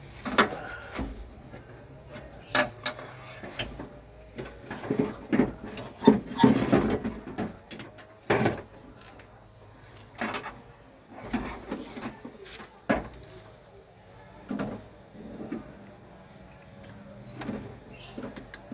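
Irregular knocks, clicks and clatter of tools and parts being handled in a car door during a power window repair.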